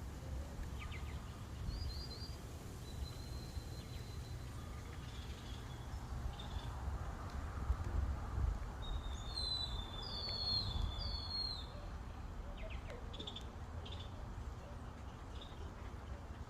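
Birds chirping and calling over the steady low rumble of wind on the microphone, with a longer run of whistled, sliding bird notes in the middle.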